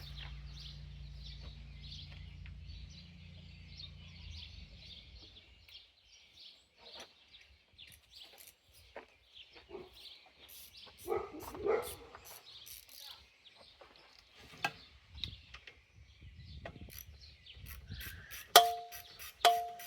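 Steady chirping of birds in the background, with scattered small handling knocks; a low hum fades out in the first few seconds, and two sharp ringing clinks come near the end, about a second apart.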